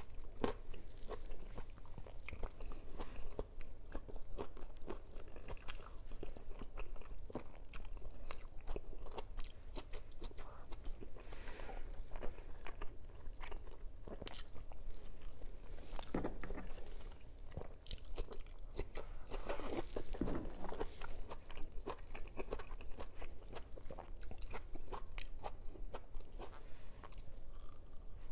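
Close-miked mouth sounds of someone eating: steady chewing and crunching, a stream of small clicks with a few louder crunches about 11, 16 and 20 seconds in. The food is a Filipino breakfast of rice and crisp fried dried fish.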